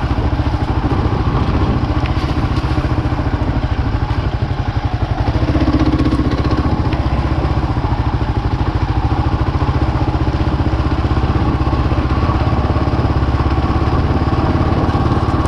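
Single-cylinder 650 dual-sport motorcycle engine running steadily, with a short dip and pickup about five seconds in.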